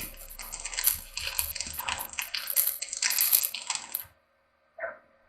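Stick arc welding with MR-3 electrodes: an irregular crackle and sputter of the arc while rebar is tack-welded, stopping abruptly about four seconds in.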